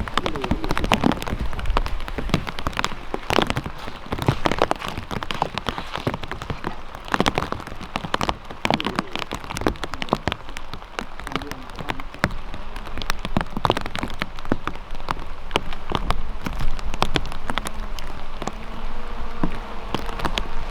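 Steady rain falling, with many separate drops striking close by in an irregular patter.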